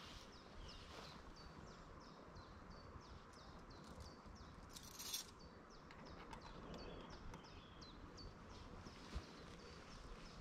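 Faint, steady series of short high chirps, about three a second, from a small bird calling repeatedly in the background, with a short rustle about five seconds in.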